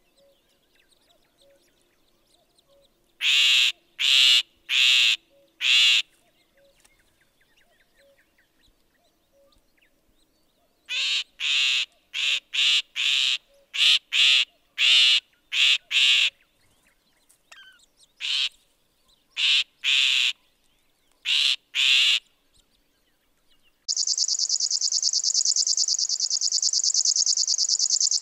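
Great grey shrike giving harsh, rasping calls in a run of four, then about a dozen more in quick succession. About 24 seconds in, a river warbler starts its loud, steady song: a fast, even, insect-like buzzing.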